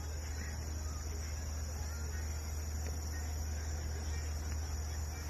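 A steady chorus of crickets, a constant high-pitched trilling, over a low steady hum.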